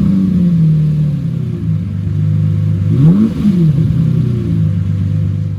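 A car engine settling back to idle after a rev, its note dropping and steadying, with one quick blip of the throttle about three seconds in.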